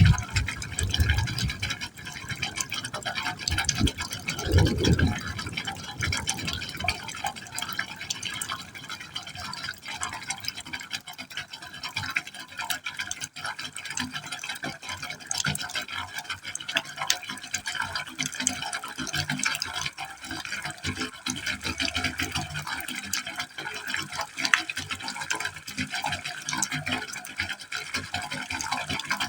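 Water falling into a pipe hole: a continuous splashing stream full of small drips and splats, with a few heavier low gushes in the first five seconds.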